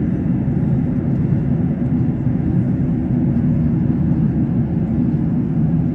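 Steady cabin noise of an airliner in level cruise flight: the even hum of the engines and airflow past the fuselage, heard from a window seat.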